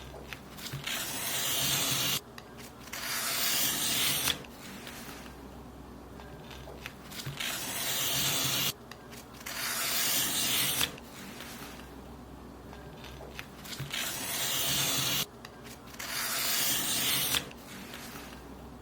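Paper being cut in long strokes: three pairs of rasping, hissy cuts, each about two seconds long, growing louder and ending abruptly, with a short pause after each pair.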